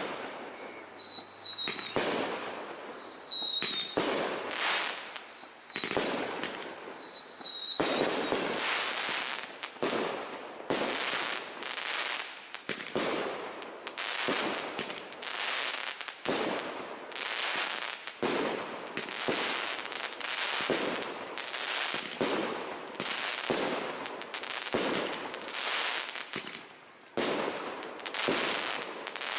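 Professional aerial fireworks display of large shells bursting in quick succession, sharp bangs with crackling tails. For the first several seconds high whistles, falling slightly in pitch, run over the bursts; after that the bursts come thick and fast, one or two a second.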